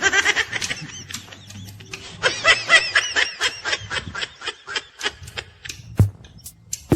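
A person laughing in quick repeated bursts: a short giggle, then a longer bout of laughter, followed by a few sharp clicks near the end.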